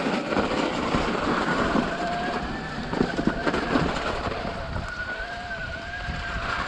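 Wind rushing over the microphone, with a thin wavering whine running through it and a few knocks a few seconds in.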